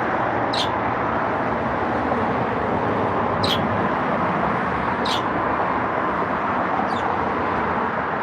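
Pet birds giving short, high chirps, four of them spread a second or two apart, over a loud steady rushing background noise.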